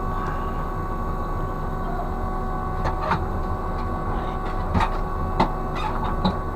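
Steady machinery hum with a few steady whining tones over it, and a few light knocks or clicks in the second half.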